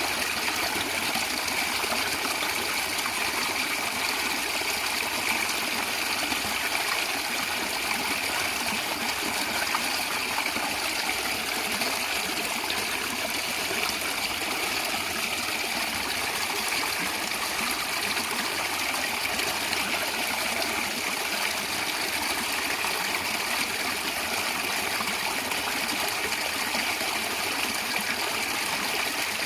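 A stream of water running and gurgling, a steady, even rush.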